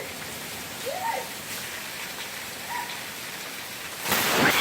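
Steady rain, with a couple of short, faint pitched calls in it. Near the end a louder rush of noise comes in, with pitched sounds sliding through it.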